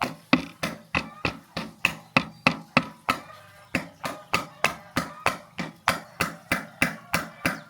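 Steady hammering in the workshop, about three blows a second, each strike short and ringing, stopping abruptly at the end.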